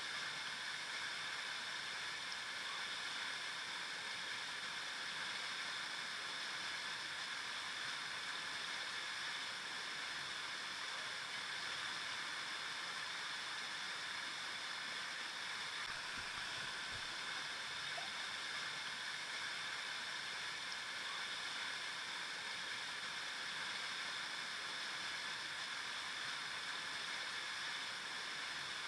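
River water flowing over rocks, a steady rushing with light gurgling.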